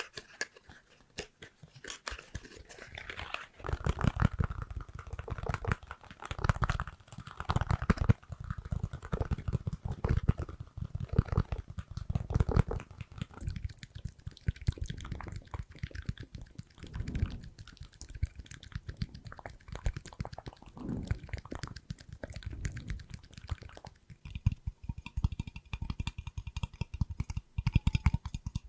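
Close-miked ASMR trigger sounds: a dense run of small clicks, taps and crackles with soft low thumps, changing character a few seconds in and again near the end.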